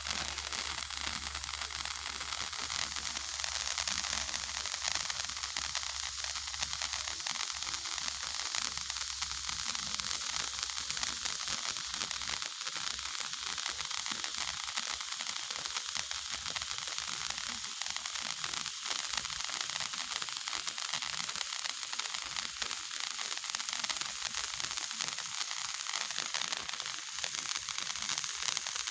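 Lit pyrotechnic fountain or coloured flare burning with a steady hiss and fine crackle.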